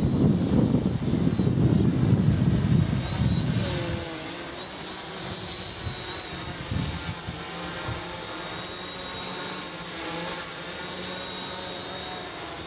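DJI F450 quadcopter's motors and propellers buzzing as it holds position in GPS loiter, the pitch wavering as the motors correct against the wind. Heavy wind buffeting on the microphone for the first few seconds, easing about four seconds in.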